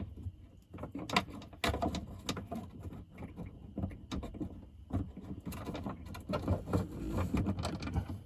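Irregular clicks, knocks and light clatter of hand tools and metal hardware being handled while fastening winch power and ground cables.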